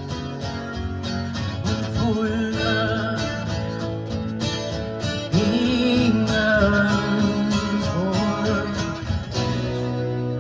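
Live band music between verses: strummed acoustic guitar under a wavering, sliding melody line.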